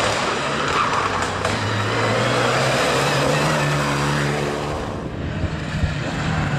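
A car engine running under steady tyre and road noise. The engine hum rises slightly in pitch through the middle and falls away near the end.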